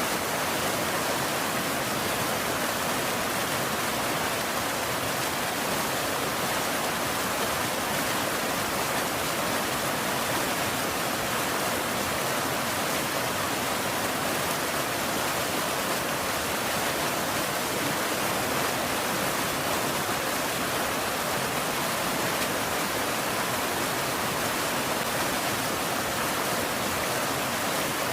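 Steady rain, an even hiss without any breaks or thunder.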